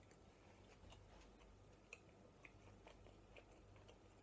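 Faint chewing of a pizza mouthful over near silence: soft, scattered mouth clicks every half second or so.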